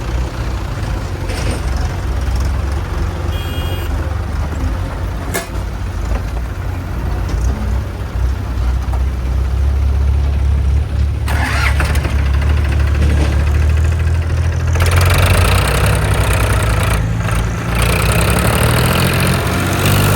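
Heavy diesel engine of a tractor or backhoe loader running steadily, getting louder and harsher about fifteen seconds in.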